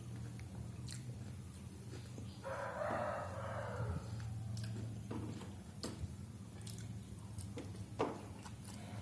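A rooster crows once, about a second and a half long, starting two and a half seconds in. Around it are scattered small clicks and smacks of chewing and eating noodles, the sharpest near the end, over a steady low hum.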